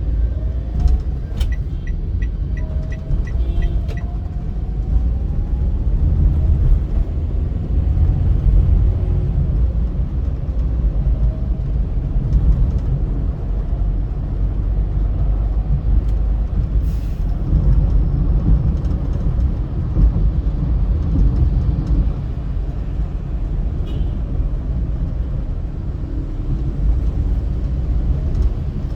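Car driving at speed on a highway: a steady low rumble of road and engine noise. A quick, regular ticking of about three a second runs for the first few seconds.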